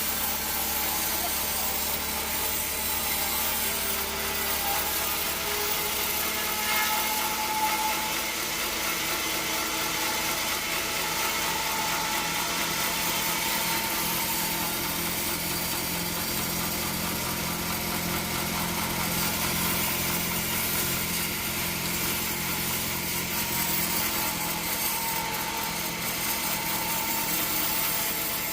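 Bandsaw sawmill running and sawing a log, a steady hiss of the blade in the wood over the machine's hum.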